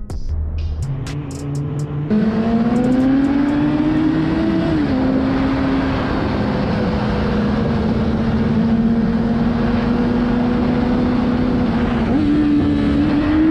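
Motorcycle engine running under way over a steady rush of wind noise. The revs climb for a couple of seconds and drop at a gear change. The engine then holds a steady note and steps up again near the end.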